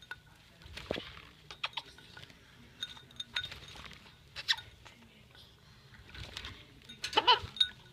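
A pet bird bathing in a shallow water dish: scattered small splashes, taps and clinks against the dish, with a short call about seven seconds in.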